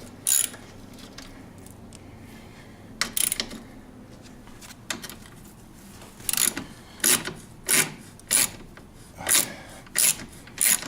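A hand tool backing screws out of a snowmobile's plastic body panel: short clicking rasps. They are scattered at first, then come about every two-thirds of a second through the second half.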